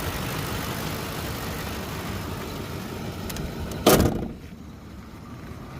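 A 2008 Ford F-150's 5.4-litre V8 idling, with one loud slam about four seconds in, after which the running sound is much quieter.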